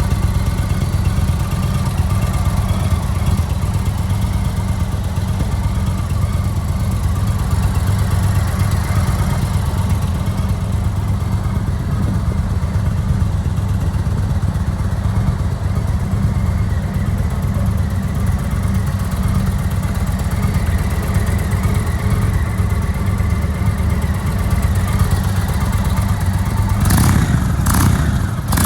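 2015 Indian Chief Classic's 1811 cc (111-cubic-inch) V-twin idling steadily. A few brief sharp noises near the end.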